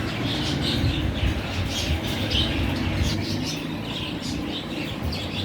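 Pet parrots chirping and squawking in many short, rapid calls, over a steady low rumble.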